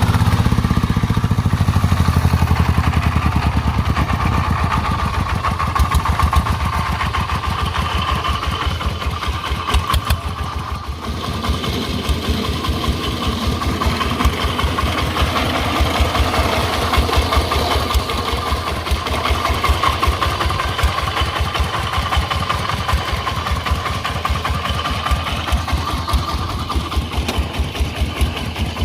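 Công nông farm truck's single-cylinder diesel engine chugging with fast, even firing beats, its level dipping briefly about eleven seconds in.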